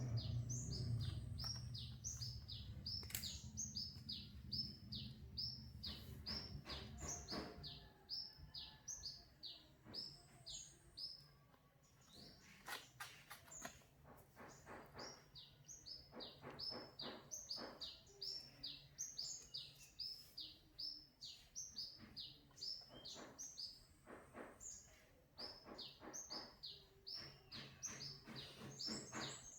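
Owl chick giving rapid, repeated short high chirps that fall in pitch, in long runs with brief pauses: begging calls. A low hum is under the first several seconds, and there are a few soft knocks.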